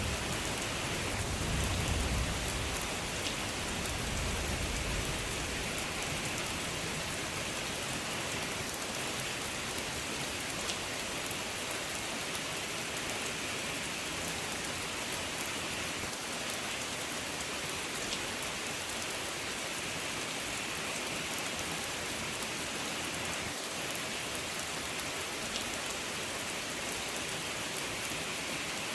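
Steady rain falling and pattering on surfaces, an even hiss. A low rumble of thunder dies away over the first few seconds.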